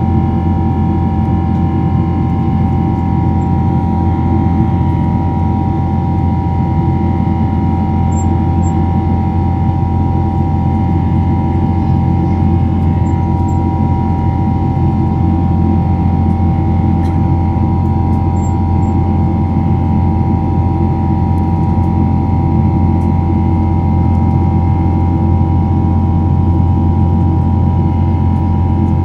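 Jet airliner cabin noise in flight: a steady, unchanging drone of the engines and airflow, a deep hum with several steady mid-pitched tones over it.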